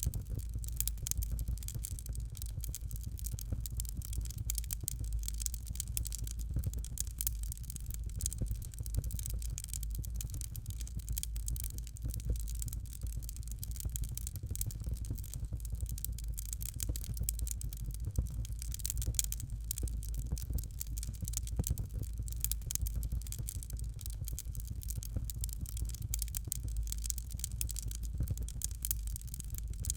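Fireplace fire crackling steadily: dense small snaps and pops over a low, even rumble.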